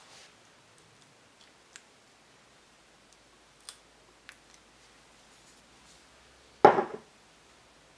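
Light, scattered clicks of small parts and tools being handled on a workbench, then a short, louder clatter near the end.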